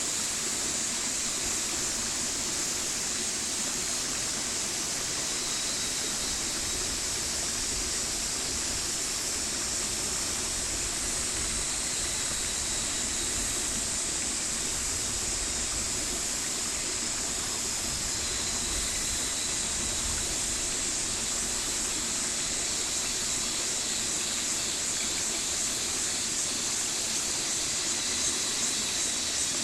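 Mountain stream rushing and splashing steadily, a continuous hiss of running water.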